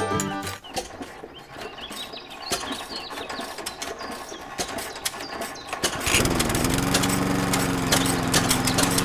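Light clicks and handling sounds, then about six seconds in a small motor starts suddenly and runs with a steady hum, its pitch dipping briefly before it settles.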